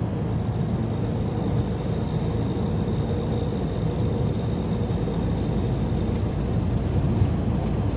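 Steady low road and engine rumble inside a semi-truck cab at highway speed, with a faint high-pitched whine above it.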